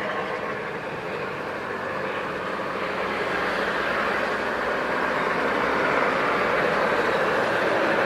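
Jet airliner engines, a loud steady rushing noise that slowly grows louder as the aircraft nears.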